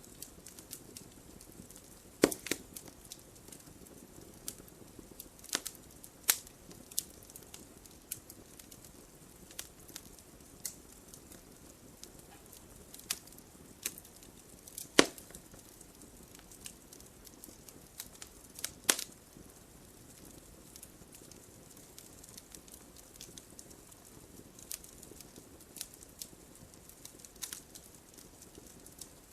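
Wood fire in a fireplace crackling: irregular sharp pops and ticks over a soft, steady flame noise. A few louder pops stand out, one a couple of seconds in, one about halfway, and one about two-thirds through.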